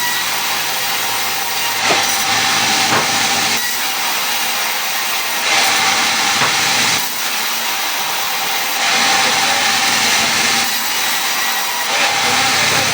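Power saw running with a steady motor tone, cutting through wood in repeated passes. Each cut is a stretch of stronger hiss lasting a second or two, coming about every three to four seconds.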